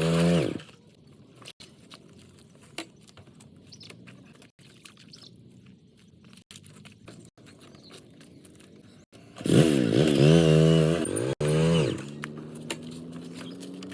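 A motor vehicle engine revving hard, its pitch dipping and rising several times over about two seconds, about nine seconds in. It then settles into a steadier run with slowly rising pitch. Before that there is a long quiet stretch of faint background noise.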